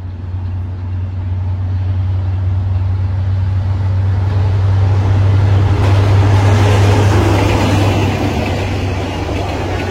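A vehicle's steady low hum with a rush of noise that swells and then eases off, loudest about six to seven seconds in, as of something going by.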